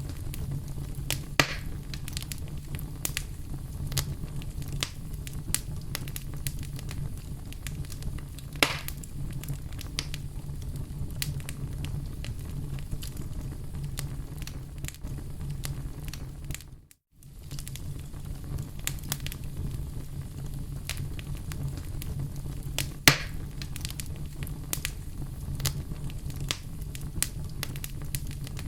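Wood fire burning in a fireplace: a steady low rumble of flames with constant crackling and a few louder pops. About seventeen seconds in, the sound drops out for a moment.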